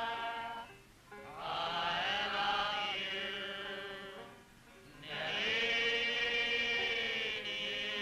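Group of soldiers singing together in chorus, in long held phrases with two short breaks between them.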